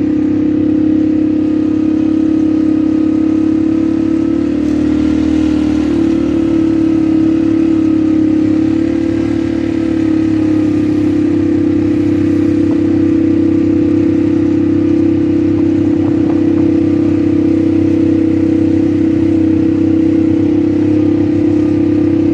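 ATV engine running at a steady, even pitch, with small rises and dips in the note now and then.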